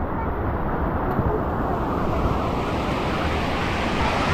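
Ocean surf and wind buffeting the microphone as one steady rushing noise, turning hissier about halfway through as the wash builds.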